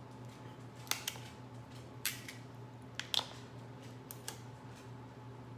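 Shellfish shells (crab and crawfish) being cracked and snapped open by hand: a run of about seven sharp cracks, mostly in quick pairs about a second apart.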